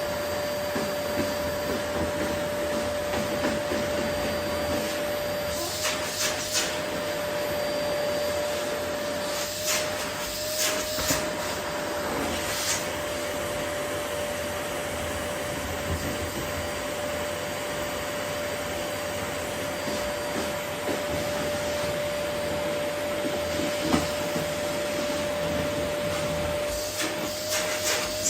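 Vacuum cleaner running steadily with a constant whine, picking up rose petals. Brief clusters of clicks and rattles come every few seconds.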